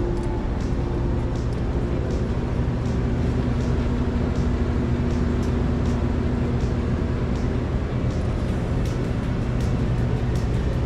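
Background music with a regular beat playing over a steady low hum of shop ambience.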